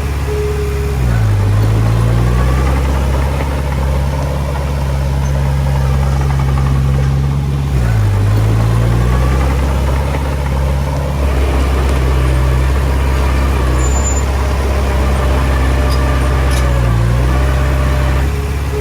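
Diesel engine of a Komatsu D20P bulldozer running at working speed. Its pitch sags briefly and recovers three times as it takes load pushing soil.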